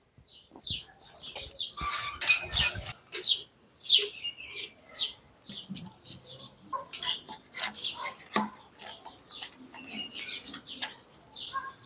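Birds chirping in short scattered calls throughout, with a brief rush of noise and a sharp click about two seconds in.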